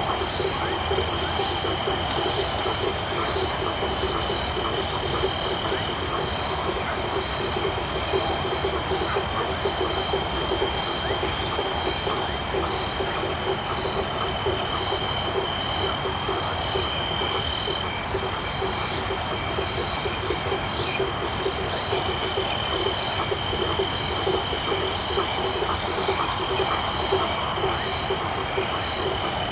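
Tropical night chorus of many frogs calling in rapid, overlapping pulses, over a steady high-pitched trill of crickets.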